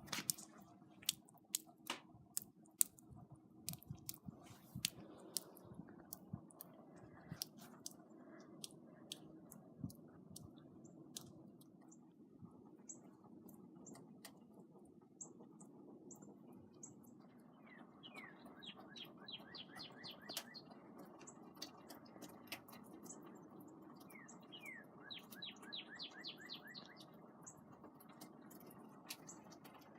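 Sharp clicking and crunching, like chewing or gnawing, for the first dozen seconds. Then two runs of quick, high, rising chirps, about eighteen and twenty-five seconds in.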